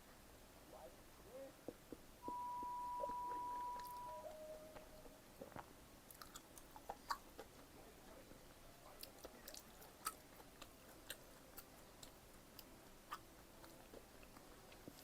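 Close-miked chewing and biting of pizza, with small crunches and wet mouth clicks. About two seconds in, a steady high tone sounds for about two seconds, then a lower tone for about a second; this tone is the loudest sound.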